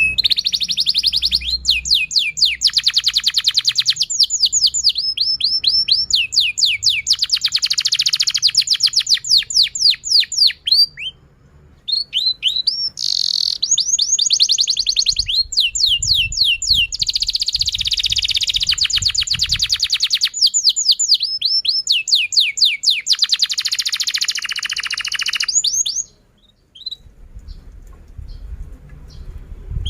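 Domestic canary singing a long song of fast trills, rows of rapid high chirps repeated many times a second. The song breaks briefly about 11 seconds in and stops about 26 seconds in, leaving only a few faint chirps.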